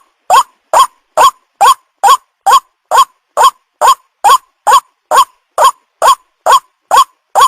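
White-breasted waterhen lure call: one short note that rises and then drops, repeated evenly about twice a second, each note alike. It is played as a call to attract young waterhens.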